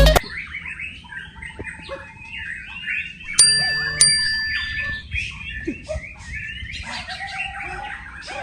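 Many caged songbirds singing and chirping at once in a dense, overlapping chorus at a songbird contest. A little over three seconds in, two loud ringing tones sound about half a second apart.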